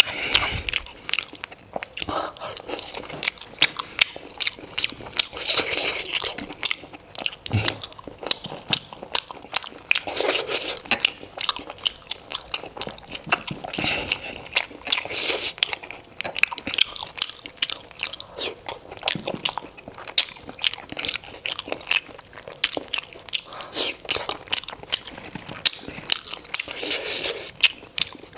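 Close-miked chewing and biting of steamed momos (dumplings), wet mouth sounds with many quick clicks and louder spells every few seconds.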